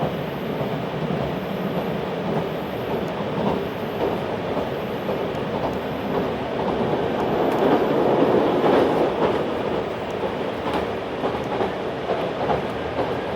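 Running noise of a JR 383 series pendulum tilting train heard from inside the passenger cabin: a steady rumble of wheels on rail with faint clicks, growing louder for a couple of seconds in the middle.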